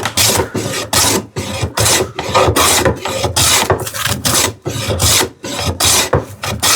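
Wooden jack plane taking quick back-and-forth strokes along a wooden drawer part, about ten rasping strokes in a row, each under a second long.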